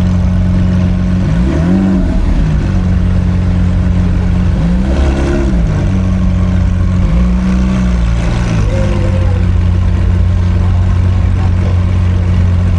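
Car engine idling with a steady hum, revved briefly three times, each rev rising and falling back to idle.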